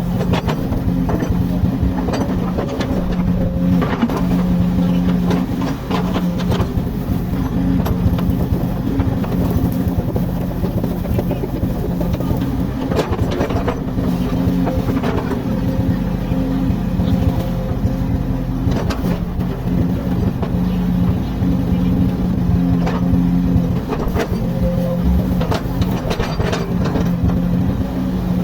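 Komatsu hydraulic excavator's diesel engine running steadily under work, with scattered knocks and clanks on top.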